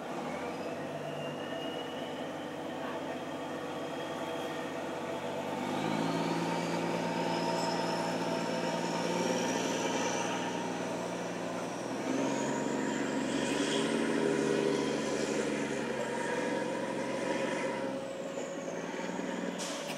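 Narrow-gauge train's engine running, its note stepping up and getting louder about six and again twelve seconds in, with a thin high whine gliding upward over it.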